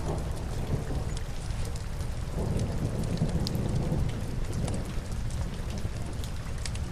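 Steady rain with a low rumble that swells for a couple of seconds about two and a half seconds in. Scattered sharp crackles of burning logs run through it.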